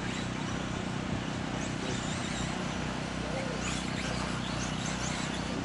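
Several 1/10-scale electric RC off-road trucks racing, their motors giving short overlapping rising whines as they accelerate, over a steady low hum and background noise.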